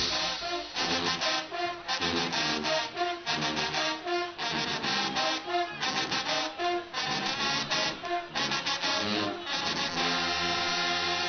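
Guggenmusik carnival band playing, with brass (trumpets and trombones) in short, punchy repeated notes, settling into a long held chord about ten seconds in.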